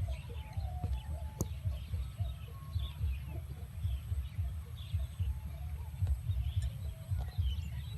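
Small birds chirping repeatedly over a constant, irregular low rumble.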